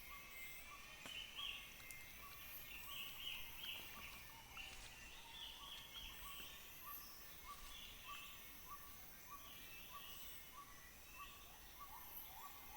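Faint Borneo rainforest ambience: a steady high insect hiss, a short note repeating evenly a little under twice a second, and scattered chirping calls.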